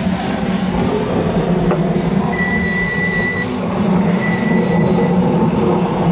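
A train running, with a steady low hum and two brief high squeals, the first about two seconds in and a shorter one near four seconds.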